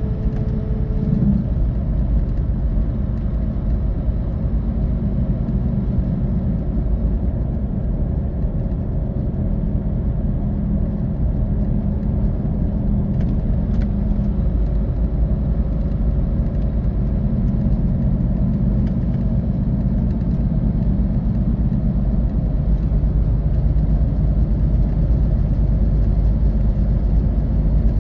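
Scania K450 coach's 13-litre six-cylinder diesel pulling steadily under way, with tyre and road noise, heard from inside the bus. A higher tone in the engine note drops out about a second in.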